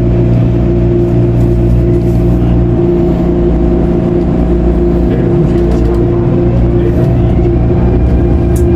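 Inside the cabin of an MTR Airport Express CAF electric train on the move: a steady low rumble with a constant hum, and a faint tone rising in pitch from about five to seven seconds in.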